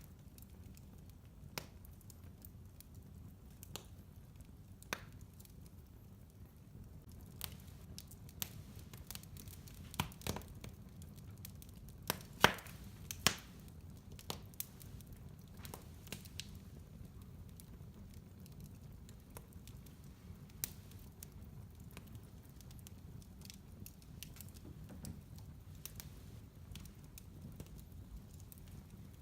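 Wood fire crackling in a fireplace: scattered sharp pops and snaps over a steady low rumble, with the two loudest pops a little before the middle.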